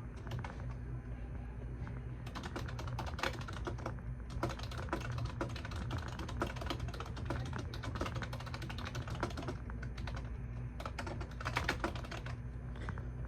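Typing on a computer keyboard, in quick runs of key clicks broken by short pauses, three runs in all, over a steady low hum.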